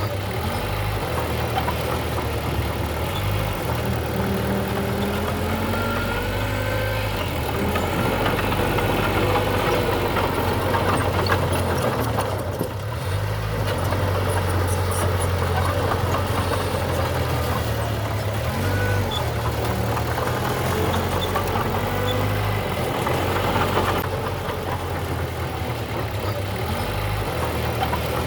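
Diesel engine of earthmoving machinery running, its level and low note shifting as the load changes, with a short dip a little past the middle.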